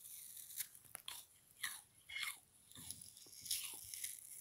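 Chewing a frozen sponge: a series of short, icy crunches as the frozen foam is bitten and chewed.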